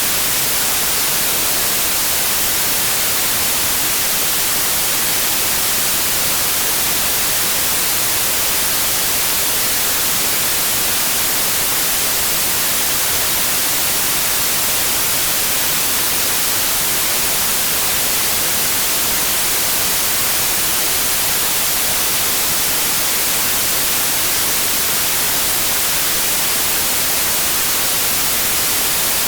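Steady white noise: an even, unbroken hiss with no tones or changes.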